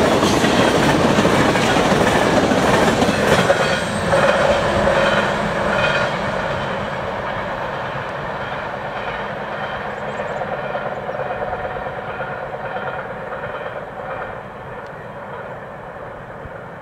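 Freight cars of a fast-moving train rushing past, their wheels clicking over the rail joints, then the rumble fading steadily as the end of the train draws away.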